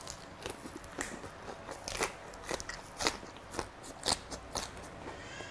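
Close-up chewing of a crisp napa cabbage leaf wrapped around beef jeon, with sharp wet crunches about twice a second.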